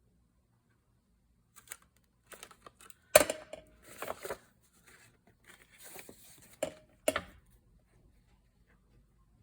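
Hole punch snapping through cardstock folders, with paper rustling and handling between. The two loudest sharp snaps come about three seconds in and near seven seconds.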